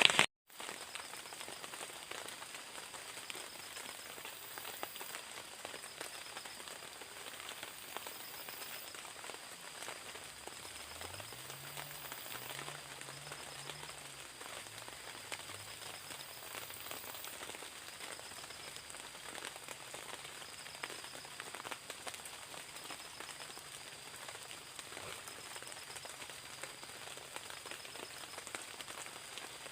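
Steady rain falling, an even hiss of drops, with a faint high chirp repeating about every second and a half.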